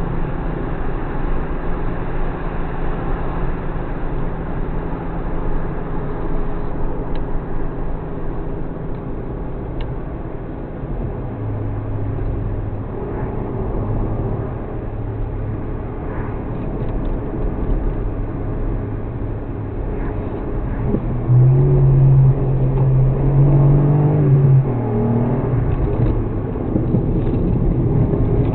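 Suzuki Alto Works HA36S car running on the road, its engine note steady and then rising and getting louder about two-thirds of the way through as it pulls harder.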